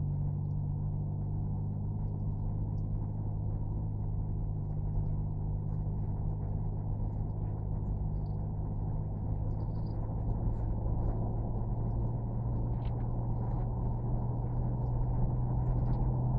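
Steady low engine drone of a running vehicle, an even hum with a few faint ticks and rattles over it.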